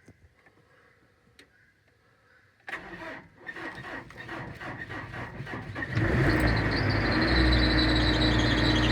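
Old truck engine cold-started: the starter cranks it with a steady rhythm of strokes for about three seconds, then the engine catches and settles into a steady run.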